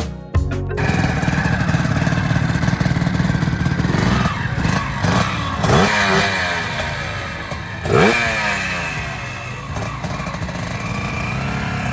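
Classic motorcycle engine running and being revved, with several rising blips in the middle and the loudest about eight seconds in. Background music cuts off just under a second in.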